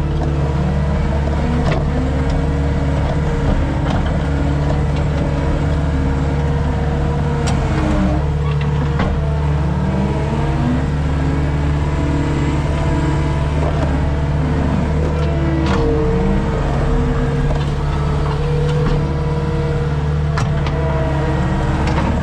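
Skid steer's diesel engine running steadily under load, with a higher whine that rises and falls in pitch and a few scattered clicks and knocks.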